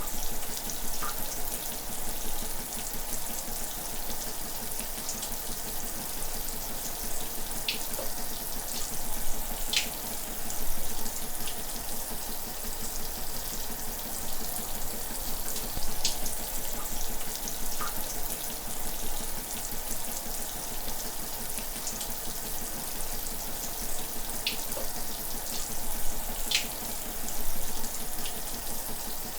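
Shower running: a steady hiss of spraying water, with a few brief sharp splashes here and there.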